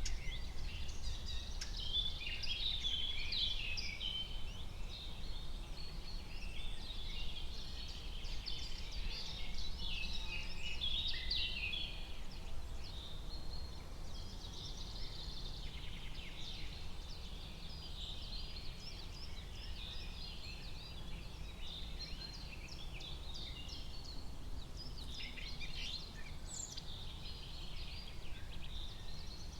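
Forest ambience: many small birds chirping and trilling at once, over a steady low rumble.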